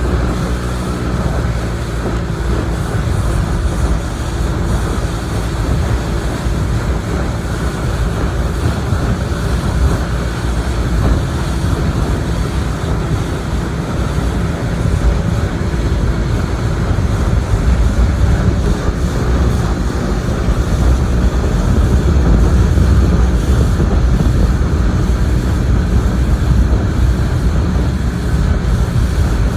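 Motorboat's engine running steadily while underway, with wind on the microphone; slightly louder in the second half.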